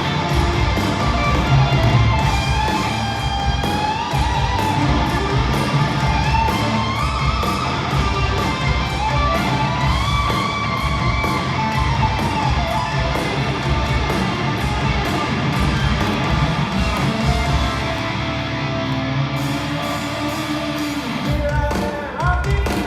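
Hard rock band playing live in a stadium: distorted electric guitars, bass and drums, with a lead guitar line sliding between notes.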